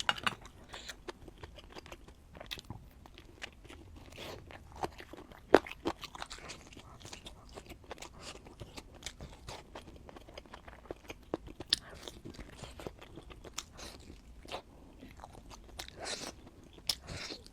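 Close-miked eating: crunchy bites and chewing, a run of irregular sharp crunches with the loudest bite about five and a half seconds in.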